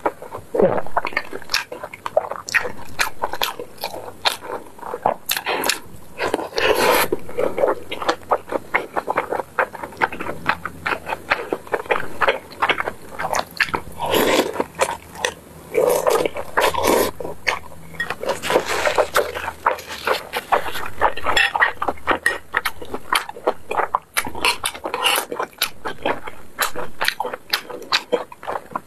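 Close-miked mukbang eating sounds: a person chewing mouthfuls of rice and braised pork belly, with rapid wet smacking clicks and a few louder mouthy bursts.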